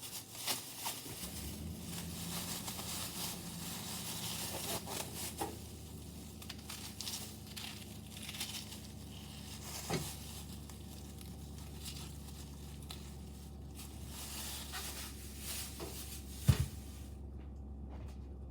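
Dry, papery onion skin being torn and peeled off by hand, crackling and crinkling, with a sharp knock near the end.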